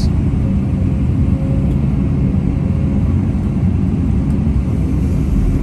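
Caterpillar 329 excavator's diesel engine running steadily, a low, even drone with no change in speed.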